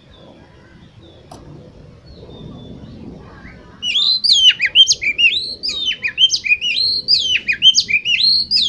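Oriental magpie-robin (kacer) singing. About four seconds in it breaks into a loud, fast run of varied sweeping whistles and trills, rising and falling in pitch, over a faint low background hum.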